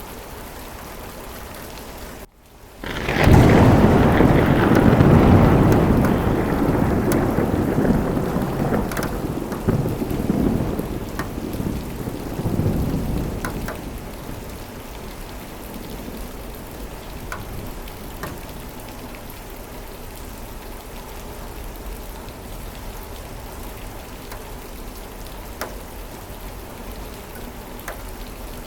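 Steady heavy rain with scattered drips, then a long rolling peal of thunder. After a brief drop-out about two seconds in, the rumble swells in, is loudest for a few seconds, surges again twice and dies away into the rain about halfway through.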